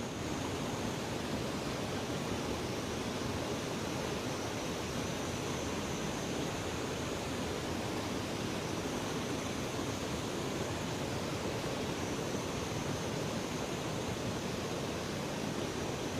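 River water rushing steadily, an even noise that holds at one level.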